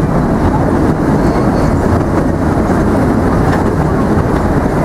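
Narrow-gauge forest railway train running along the track, heard from aboard a carriage: steady running noise of wheels on rails.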